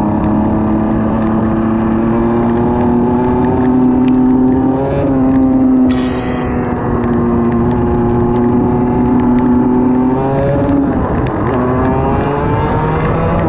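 A motor engine running steadily with a hum whose pitch drifts slowly upward and shifts briefly twice, with a short high-pitched sound about six seconds in.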